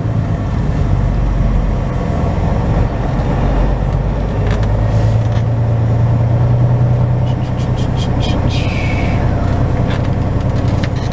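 Semi truck's diesel engine running steadily at low speed, heard from inside the cab, with a short run of clicks about three-quarters of the way through.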